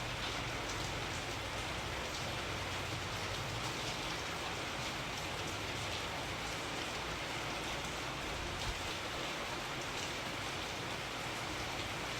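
Steady rain falling, with a dense even hiss and faint individual drops ticking on a surface.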